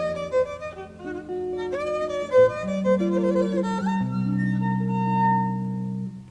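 Jazz violin playing a slow melody with vibrato and sliding notes, over held guitar chords and a bass line, in a live concert recording played back from cassette tape.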